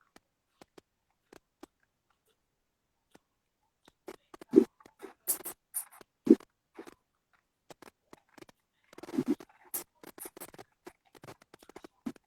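Irregular scratching, tapping and knocking contact sounds, with two louder thumps about four and a half and six seconds in.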